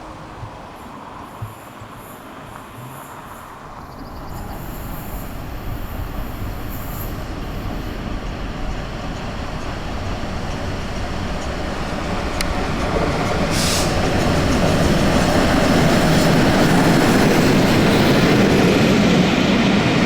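Peppercorn A1 Pacific steam locomotive 60163 Tornado approaching on the line, a rumble of wheels on rail that builds steadily louder from about four seconds in.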